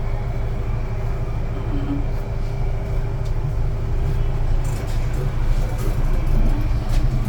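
Steady low mechanical rumble with a faint constant hum from a moving cable-driven amusement ride, heard from on board as it descends.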